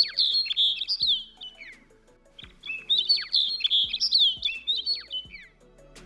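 A bird singing two twittering phrases of quick chirps and down-slurred notes, the second starting about two and a half seconds in, over faint background music.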